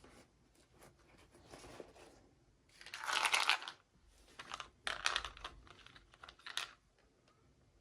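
Toy packaging being torn open and crinkled in a few rustling bursts, the loudest lasting about a second near the middle.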